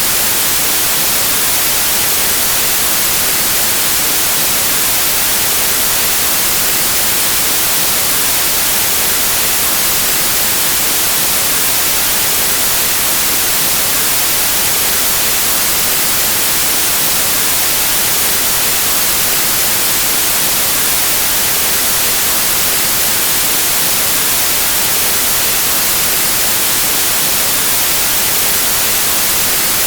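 Steady, unchanging white noise: an even static hiss, brightest in the highest pitches.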